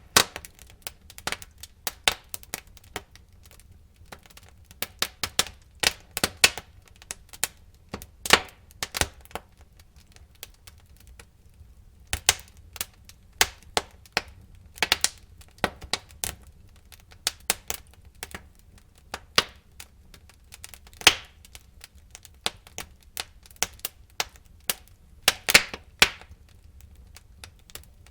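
Wood fire burning in a fireplace, crackling and popping irregularly over a low steady rumble, with a few louder pops near the middle and a cluster close to the end.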